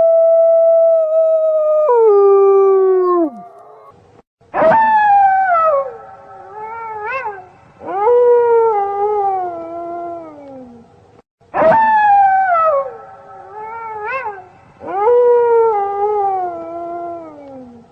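Wolves howling: a long held howl that drops away in pitch, then two long falling howls, each followed by short rising yips, the second an exact repeat of the first.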